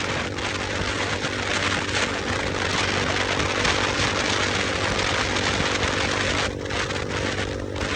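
Motorcycle engine running steadily under a loud rushing hiss.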